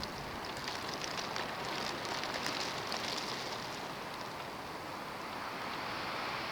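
Snowstorm wind blowing steadily, with faint scattered ticks during the first half.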